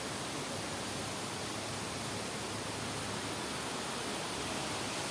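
Waterfall water rushing: a steady, even hiss.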